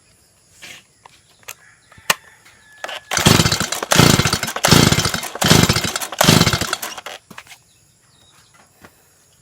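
Two-stroke Stihl MS 170 chainsaw engine running in a string of short loud bursts for about four seconds, starting about three seconds in, then stopping.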